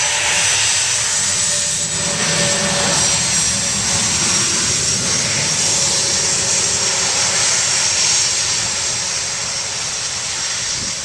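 A-10 Thunderbolt II's twin TF34 turbofan engines running steadily, a rushing jet noise with steady high-pitched tones over it, easing off a little near the end.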